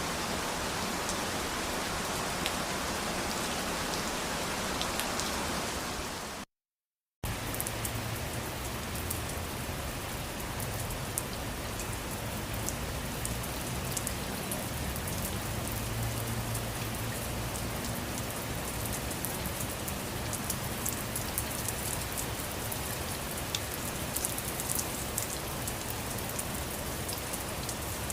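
Steady rain falling, with individual raindrops ticking on a surface. About six seconds in, the sound cuts out completely for under a second. It then resumes with a deeper low rumble under it and sharper drop ticks.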